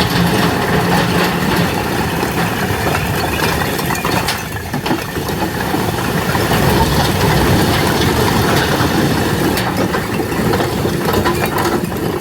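Tractor engine running steadily while its tipping trolley unloads a load of bricks, with scattered clattering knocks from the bricks.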